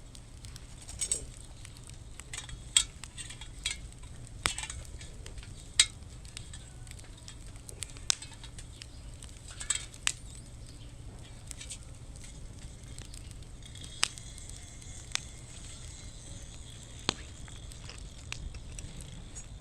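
Wood burning in a fire-pit stand, crackling with scattered sharp pops at irregular intervals over a steady low rumble.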